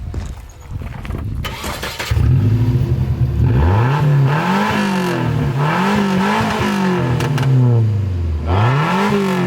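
A Nissan 240SX's 2.4-litre four-cylinder engine starting, with its exhaust open behind the catalytic converter (muffler cut off). It catches about two seconds in, runs loud and raspy, then is revved up and let fall back three times.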